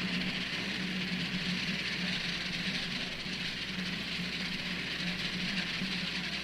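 Steady mechanical hum with a constant hiss over it, with no clear starts or stops.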